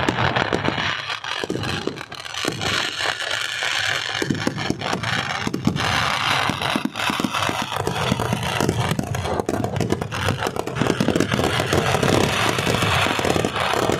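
A fireworks barrage of firecrackers going off in a dense, continuous rapid crackle of many small bangs, growing a little louder toward the end.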